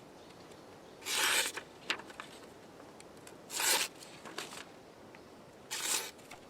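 Cold Steel Recon 1 tanto folding knife slicing through paper, three short rasping cuts about two seconds apart. These are a sharpness check on the edge after twenty rope cuts, which has dulled it slightly.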